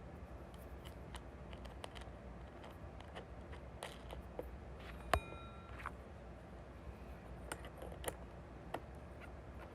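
Small hard objects being handled: scattered light clicks and knocks over a steady low hum, with one sharp clink about halfway through that rings briefly with a clear pitched tone.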